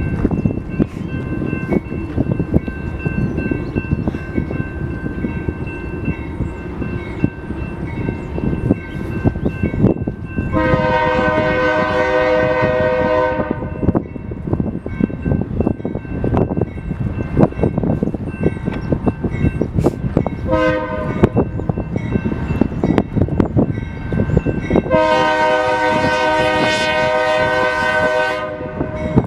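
BNSF train's multi-chime air horn sounding a long blast, then a short one, then another long blast near the end, over the steady rumble and clatter of the passing train's wheels on the rails.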